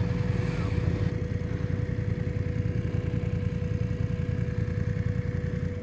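BMW R1200 flat-twin motorcycle engine idling steadily, with a thin steady whine above the low pulsing of the exhaust.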